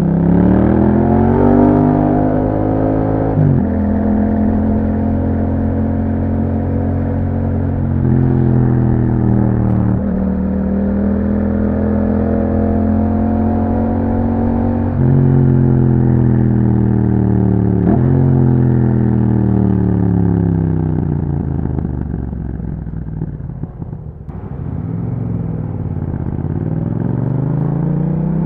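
2021 Yamaha MT-07's 689 cc parallel-twin engine through an Akrapovič exhaust, accelerating up through the gears with upshifts about 3.5, 8 and 10 seconds in. It then slows with downshifts, easing nearly to idle just after 20 seconds, and pulls away again near the end.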